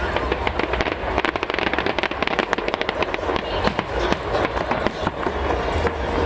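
Aerial fireworks going off in rapid succession: a dense stream of sharp cracks and pops, many a second.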